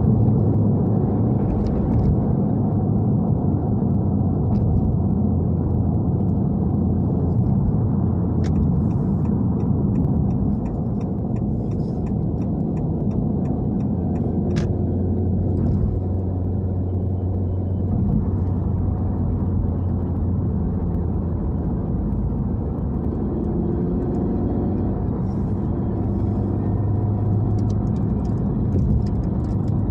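Honda Civic hatchback's 1.5-litre turbo engine and tyre noise heard from inside the cabin: a steady low drone at an even cruising pace, with no hard revving.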